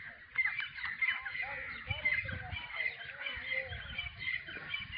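Birds chirping: many short, overlapping chirps with a few lower calls mixed in.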